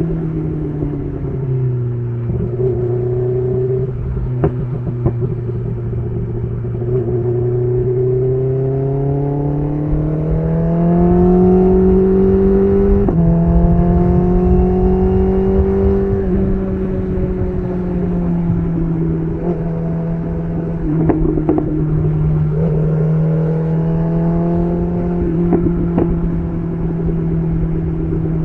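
BMW S1000RR inline-four engine through an SC Project CR-T titanium exhaust, pulling on the road. The revs drop near the start and hold low for several seconds, then climb. About halfway through the pitch jumps abruptly, and the engine then eases back to a steady cruise.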